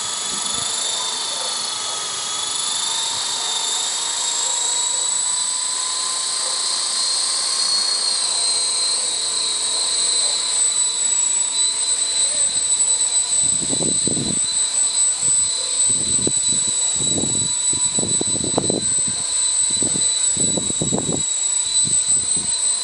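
Radio-controlled Blade CP Pro helicopter in flight: a steady high-pitched motor and rotor whine that wavers slightly in pitch. From about halfway in, gusts of wind buffet the microphone in irregular rumbles.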